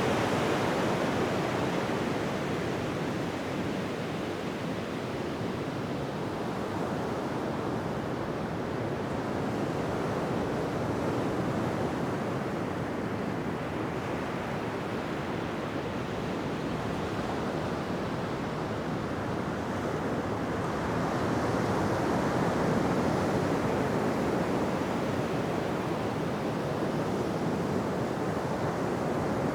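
Ocean surf washing on a beach: a steady rush of breaking waves that swells and eases slowly in loudness, rising again about two-thirds of the way through.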